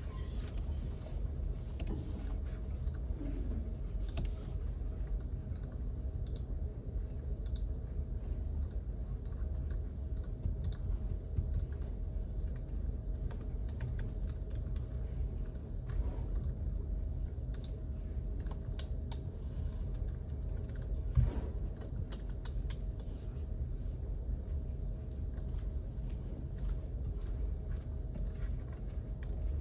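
Irregular typing on a computer keyboard, scattered key clicks over a steady low hum, with one louder knock about two-thirds of the way through.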